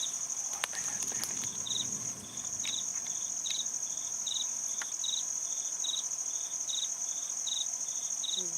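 Forest insects calling: one gives a continuous high, finely pulsed trill while another chirps in short repeated bursts, about two a second, alternating louder and softer. A few faint clicks sound in the first couple of seconds.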